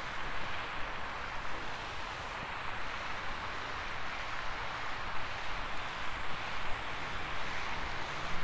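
A steady rushing noise, with a low hum rising in pitch near the end.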